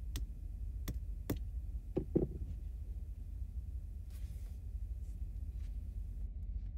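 Small hammer tapping a toy's driver gear to knock it off its firmly mounted axle: about five sharp, light taps in the first two and a half seconds, two of them close together, then quiet handling.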